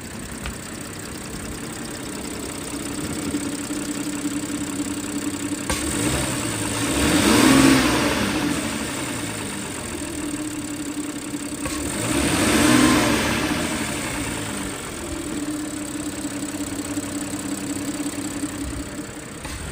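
Audi A6 V6 engine idling under the open hood, revved up and back down twice, about seven and twelve seconds in. Its 'da-da-da' ticking is what the owner asks might be a stretched timing chain.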